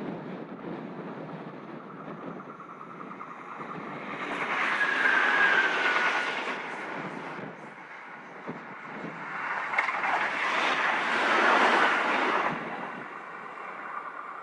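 NSW CityRail Endeavour and Hunter diesel railcars running past on the track, swelling loud twice, about five and eleven seconds in, with a slightly falling whine during the first pass.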